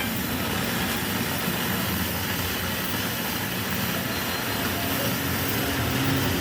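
A vehicle engine running steadily under a constant wash of road traffic noise.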